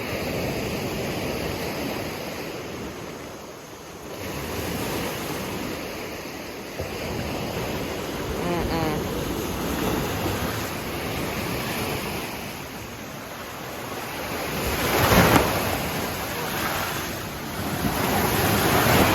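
Waves washing onto the Lake Tanganyika shore, surging and ebbing, with one louder surge about three-quarters of the way through, and wind buffeting the microphone.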